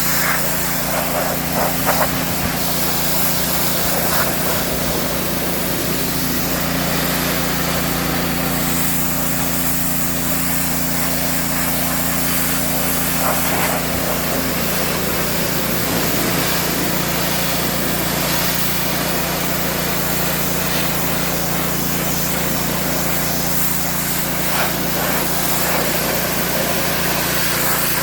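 Gas pressure washer with a Honda engine running steadily under load, its water jet hissing as it blasts dirt and paint off a truck's body.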